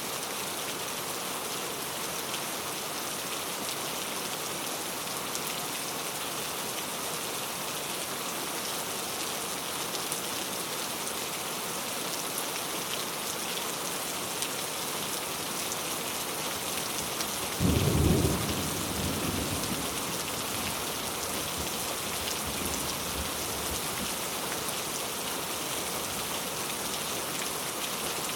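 Steady heavy rain falling throughout. About two-thirds of the way in a single thunderclap cracks, then rumbles away over a couple of seconds.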